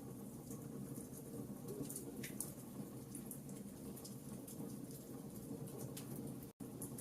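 Wood fire crackling in a fireplace: scattered small pops and snaps over a steady low rumble. The sound drops out completely for an instant near the end.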